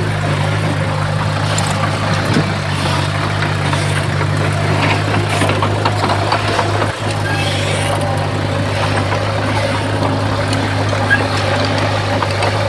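Heavy diesel engine of earthmoving machinery running steadily, with scattered faint knocks and rattles.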